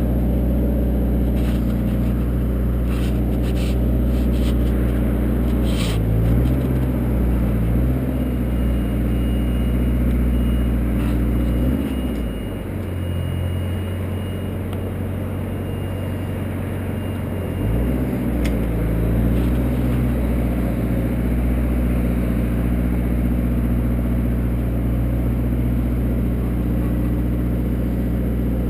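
A motor engine running steadily, its pitch shifting a few times, with a lower, quieter stretch from about 12 s that comes back up near 18 s.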